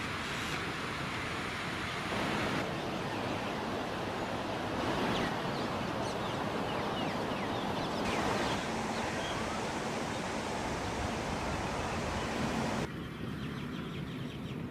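Steady rushing outdoor background noise that shifts abruptly at several cuts, with faint, short, high bird chirps over it.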